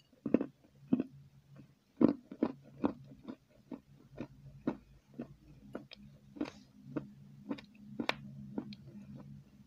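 Close-miked chewing of a chocolate dessert: a run of short mouth clicks and soft bites, about two or three a second, at an uneven pace.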